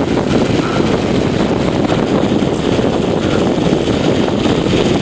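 Steady wind noise buffeting the microphone of a bicycle rider coasting fast downhill.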